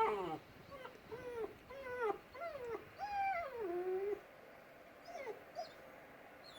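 Dog whining in a run of short cries, each rising and then falling in pitch, about seven in the first four seconds, then two brief ones a little after five seconds.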